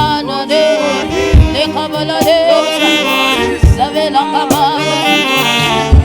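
Live gospel praise music: a saxophone plays a gliding melody with singing over a full band, punctuated by heavy kick-drum hits.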